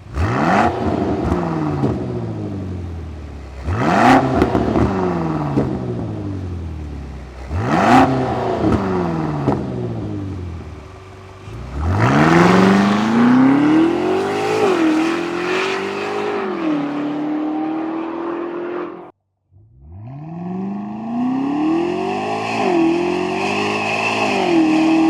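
Range Rover SV P615's twin-turbo V8 through a QuickSilver Sound Architect exhaust: three sharp revs about four seconds apart, each falling back toward idle. Then two longer runs where the pitch climbs, dips twice and climbs again, with a sudden short break between them.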